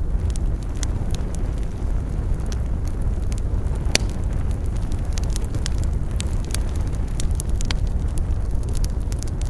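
Wood campfire burning: a steady low rumble of flames with frequent sharp crackles and pops from the wood, one especially sharp pop about four seconds in.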